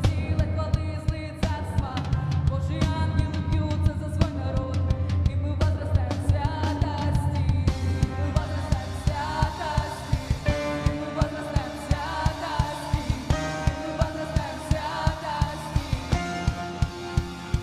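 Worship song played by a band: drum kit keeping a steady beat under bass and sustained chords, with a melody line coming in about eight seconds in.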